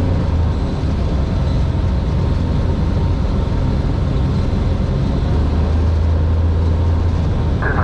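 Cessna 182R's six-cylinder piston engine and propeller running steadily, a loud constant drone heard from inside the cabin.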